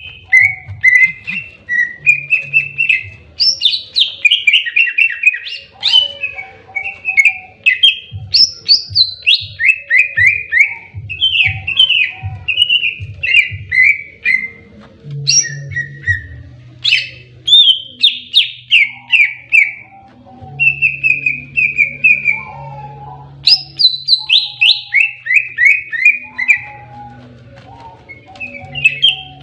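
Green leafbird (cucak ijo) singing a fast, continuous, loud song in its aggressive 'fighting' (tarung) style. The song is made of repeated runs of quick whistled notes that drop in pitch, with barely a pause.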